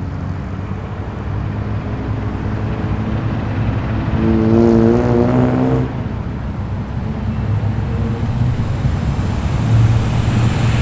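Car engines running with a deep, steady rumble as cars pull away. One engine revs up for about two seconds, roughly four seconds in, and another grows louder near the end.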